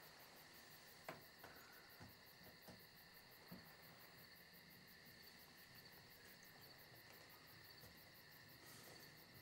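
Faint, steady chirring of crickets, with a few soft knocks and taps in the first four seconds as a picture frame is set against a log wall and hung.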